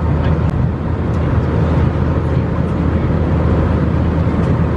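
Steady low rush of an Airbus A320 in flight, heard from inside the passenger cabin: airflow and engine noise with a faint steady hum, and a few faint clicks.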